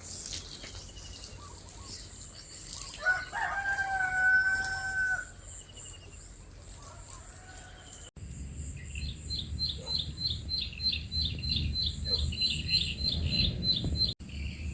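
A rooster crows once, one held call of about two seconds. After a cut, a rapid high-pitched pulsing trill runs for about five seconds over a low rumble.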